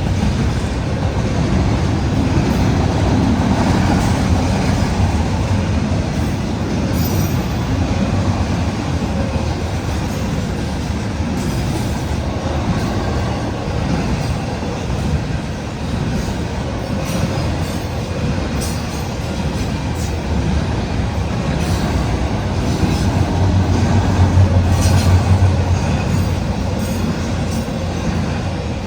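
Norfolk Southern intermodal freight train rolling past: a steady low rumble of steel wheels on rail, with scattered clicks as the cars cross rail joints.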